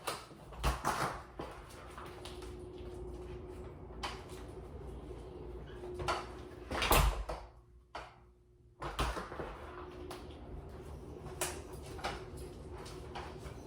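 Scattered knocks and clunks of a door being handled, with a sliding door running, over a steady low hum; one heavier knock comes about halfway through.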